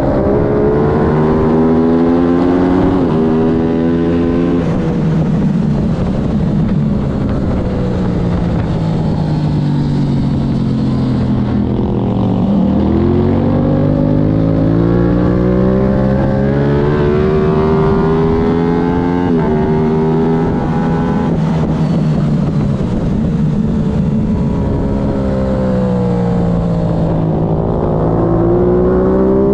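Aprilia race motorcycle engine at racing speed: it revs up through the gears with quick upshifts, drops down through downshifts into a slow corner about twelve seconds in, then accelerates again. It slows once more in the later part and is pulling hard again near the end.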